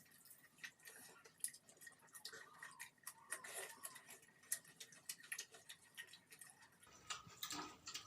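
Faint eating sounds: irregular wet clicks of chewing and mouth sounds over rice and chicken curry.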